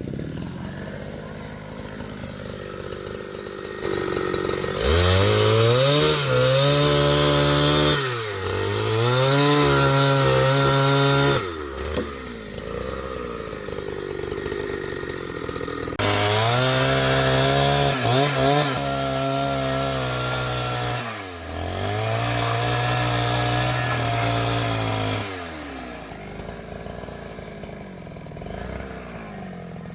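Two-stroke chainsaw running and being revved up to full throttle four times, each for a few seconds, as it cuts timber, dropping back to a lower speed between cuts.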